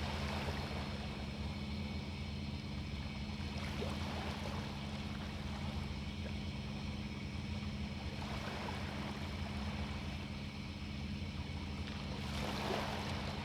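Sea waves washing onto a beach, a swell of surf about every four seconds, over a steady low hum.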